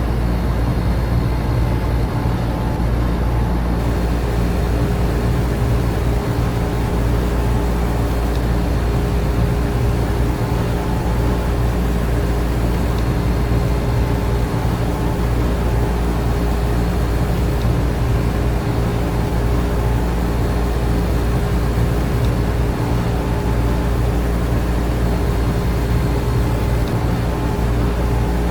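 Air conditioner and electric fans running steadily: a constant low hum with a few steady tones over an even rush of moving air, unchanging throughout.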